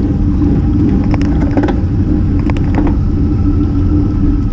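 Steady wind and road rumble on a racing bicycle's action camera during a slow, hard climb, with a few faint clicks about a second and two and a half seconds in.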